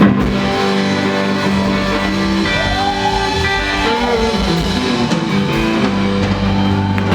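Live rock band playing, with electric guitar to the fore over held chords and some sliding notes midway.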